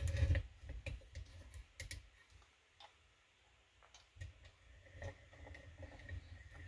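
Scattered light metallic clicks and taps from lock picking tools and the lock cylinder being handled, with a quiet gap in the middle and soft handling rumble afterwards.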